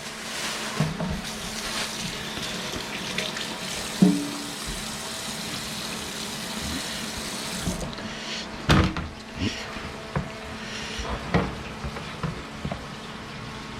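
Kitchen sink tap running as hands are washed under it, then shut off about eight seconds in. A few clicks and knocks follow.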